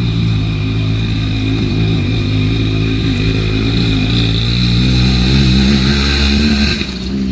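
An engine running steadily, its pitch rising a little midway, then dropping off abruptly near the end.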